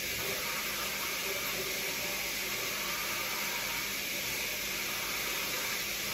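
Pork chops frying in oil in a skillet, a steady sizzling hiss.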